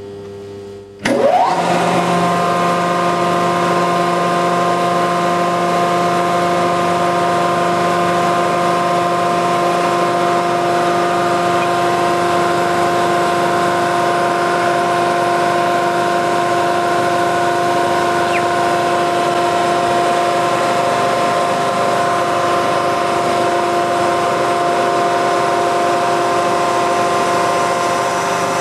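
Hydraulic press pump motor starting about a second in, with a brief rising whine as it spins up, then running with a steady, even hum.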